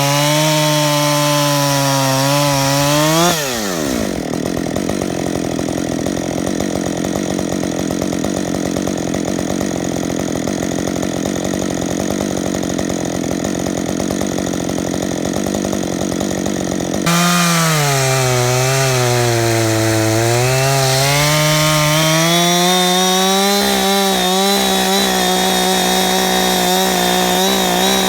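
Chainsaw running at high revs while cutting into a California black walnut stump, its pitch sagging and recovering as the bar loads in the wood. About three seconds in the engine drops off to a lower, rougher running. Near the middle it jumps back to full throttle and the pitch dips and climbs again under load.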